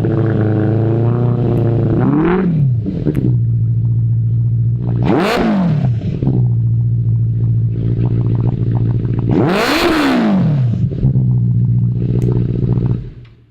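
Benelli TNT 600i's inline-four engine idling through an IXIL aftermarket exhaust, blipped three times: a short rev, then two hard revs that rise and fall back to idle. The sound falls away just before the end.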